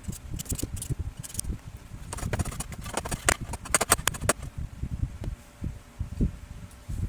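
Handling noises from close work on small parts: a run of small clicks, taps and scrapes, thickest between about two and four and a half seconds in.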